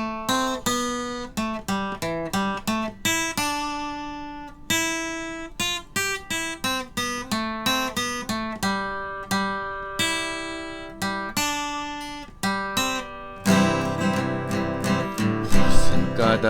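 Instrumental intro on acoustic guitar: a melody of single plucked notes, each ringing and decaying. About 13 seconds in, a fuller strummed accompaniment with bass comes in.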